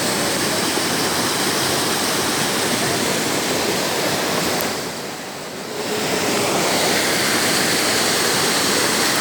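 Steady rush of water in a heavy rainstorm, dipping briefly about five seconds in.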